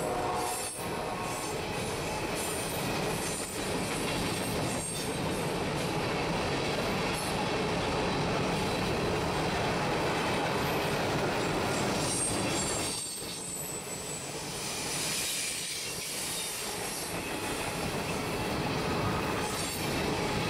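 Freight train of covered hopper cars and then gondolas rolling steadily past, with wheels clicking over rail joints and a thin, high-pitched squeal from the wheels.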